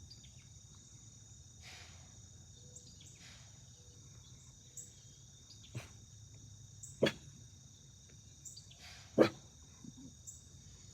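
A deer blowing in alarm: two loud, sharp snorts about two seconds apart, with fainter ones before them, over a steady chorus of crickets.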